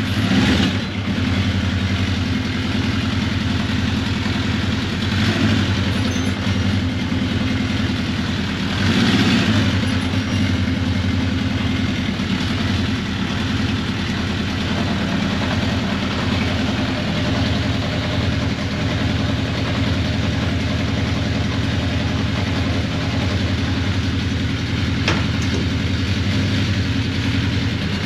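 1981 Honda CB750 Custom's air-cooled inline-four engine idling steadily, with a few brief rises in revs in the first ten seconds.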